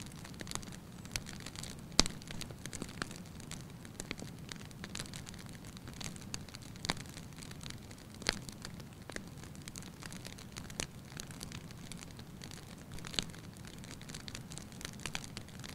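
Wood fire in a fireplace crackling, with irregular sharp pops, the loudest about two seconds in, over a steady low rumble of the flames.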